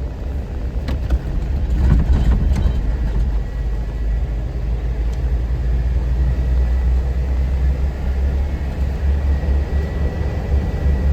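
A 4x4 being driven on a mountain trail road, heard from inside the cabin: a steady low engine and road rumble, with a few knocks from bumps in the first few seconds.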